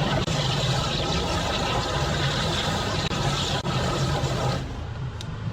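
An engine runs steadily under a loud rushing hiss, which stops about four and a half seconds in.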